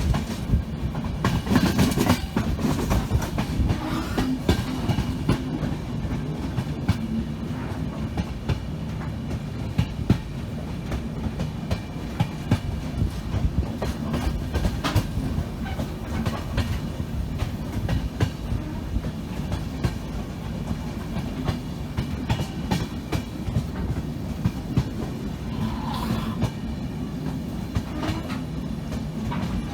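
Indian passenger train running on the rails: a steady low rumble with the clickety-clack of its wheels over the track.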